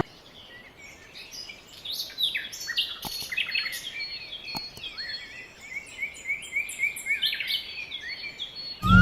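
Small birds chirping, a rapid, busy run of short, falling chirps that starts faintly and fills in from about two seconds in.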